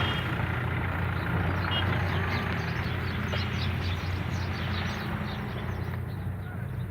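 Many birds chirping in short, rapid calls over a steady low hum that sounds like a motor or distant traffic; the chirping thins out near the end.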